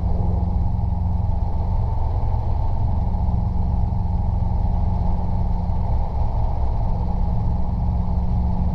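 Robinson R22 helicopter's engine and rotors running with a steady, even drone.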